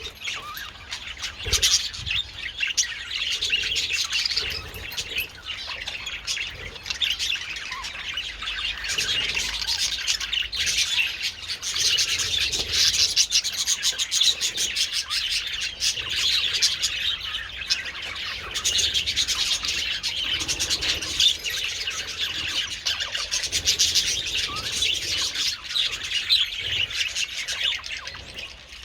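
A flock of budgerigars chattering continuously, many short chirps and warbles overlapping at once.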